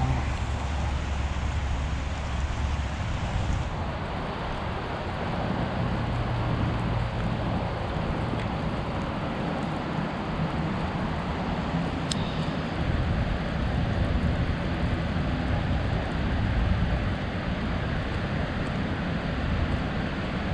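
City street ambience, a steady wash of traffic with a low rumble that swells and fades as vehicles pass. A single sharp click sounds about twelve seconds in.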